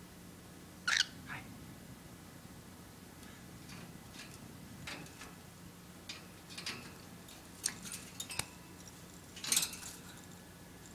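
A pet bird's short, high squeaky calls, the loudest about a second in and again near the end, with small clicks and taps in between.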